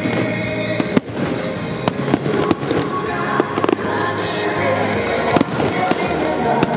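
Fireworks shells bursting in repeated sharp bangs, the strongest about one, two and a half and five and a half seconds in, over music playing throughout.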